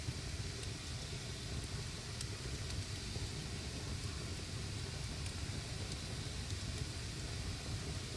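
Wood campfire burning: a steady low rushing noise with a few faint crackles here and there.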